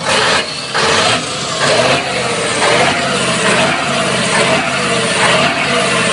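Iveco Turbostar 190.48's turbocharged V8 diesel engine, with a stock exhaust and an emptied muffler, being revved: two short blips of the throttle in the first second or so, then held at higher revs with the level rising and falling.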